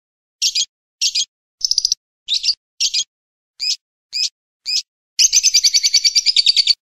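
Bird song: eight short, sharp, high chirps about half a second apart, then a fast, high trill lasting about a second and a half near the end.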